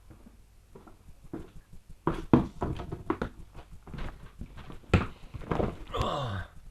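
Front-loading washing machine running a speed wash, its drum turning with irregular knocks and sloshing, and a falling whine near the end.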